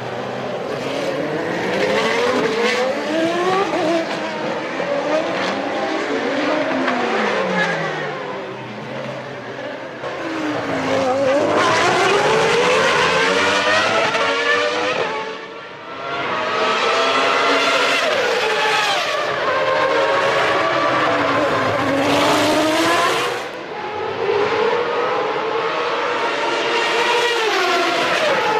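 Formula One cars' engines running at high revs, several at once, their pitch repeatedly climbing and dropping through gear changes.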